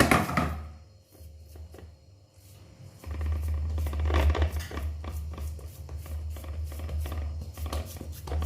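Hands pressing and patting soft corn-flour dough into a heavy pan, with soft dabbing and rubbing noises and a sharper knock at the very start. A steady low rumble comes in about three seconds in.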